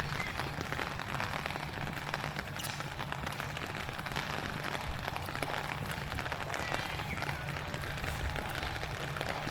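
Heavy rain falling on a pier walkway, a steady dense patter of drops, with a low rumble of wind underneath.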